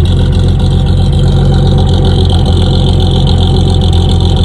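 A classic car's engine idling close by: a loud, steady, even rumble.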